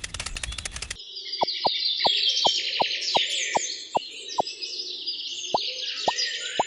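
Many small birds chirping together, with a string of short, falling plink-like tones two to three a second. A fast, even clicking rattle fills the first second.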